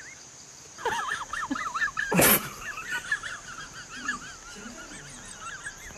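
A steady stream of quick, wavering bird-like calls, with one loud honk-like blast about two seconds in.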